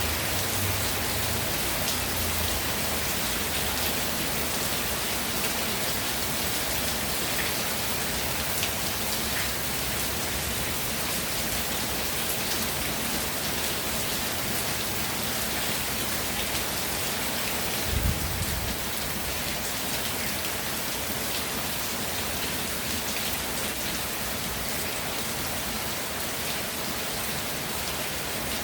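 Steady rain falling, a dense even hiss with the ticks of individual drops landing. About two-thirds of the way through there is a brief low rumble.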